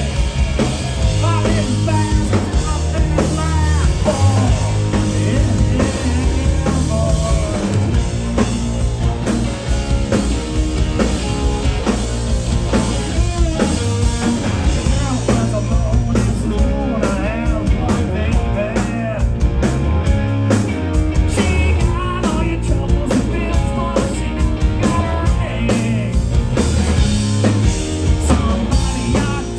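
Live rock band playing at full volume: drum kit, electric guitars and bass, with a lead voice singing over them. The drumming gets sharper and busier about halfway through.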